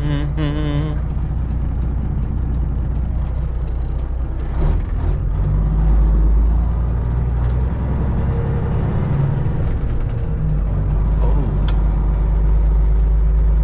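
Semi truck's diesel engine droning steadily, heard from inside the cab while driving, with a few faint knocks along the way.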